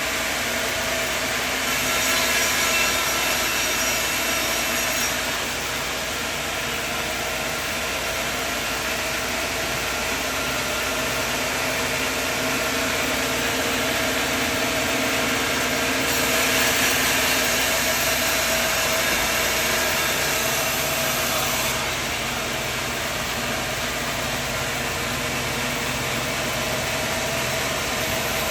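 Portable sawmill running steadily, engine and saw droning, with two stretches where it grows louder and hissier.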